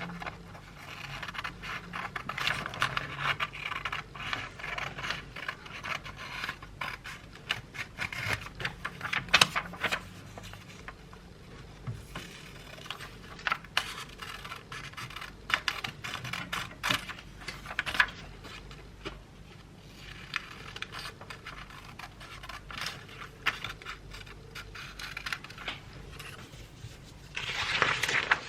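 Scraping and scratching in short stretches, with many small clicks and taps, and a louder scrape near the end.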